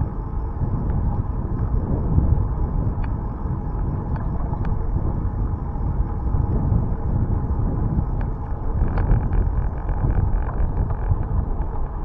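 Wind buffeting the microphone of a camera on a moving bicycle: a steady low rumble that swells and eases in gusts, with a few faint clicks.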